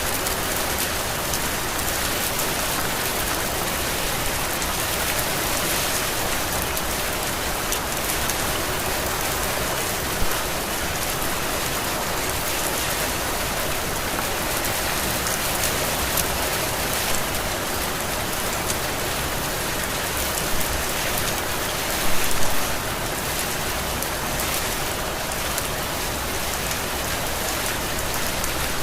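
Steady heavy rain falling on surfaces, an even hiss of many drops, with a few louder drips or splats now and then, the biggest cluster about two-thirds of the way through.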